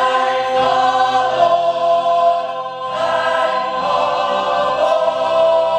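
Musical-theatre chorus singing long held notes in harmony, moving to a new chord about three seconds in.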